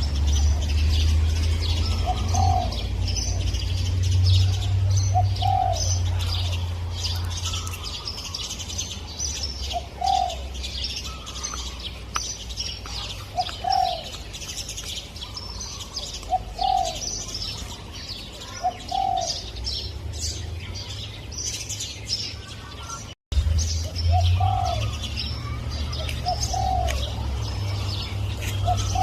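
Spotted dove cooing, short low coo notes repeated every two to three seconds, over a dense chorus of small birds chirping. A low rumble sits under it, and the sound briefly cuts out near the end.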